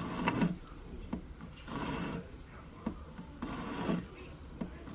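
A metal file being drawn across the side of an 18-karat gold ring, evening it with the shank. Three slow filing strokes, one about every second and a half, with light clicks between them.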